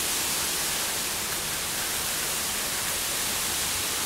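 Steady rain falling, an even hiss with no thunder or separate drops standing out.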